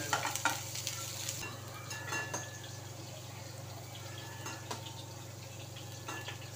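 Oil sizzling steadily as chopped onion and ginger fry in a non-stick pan and soya chunks fry in a kadhai of oil. A spatula scrapes and clicks against the pan in the first couple of seconds.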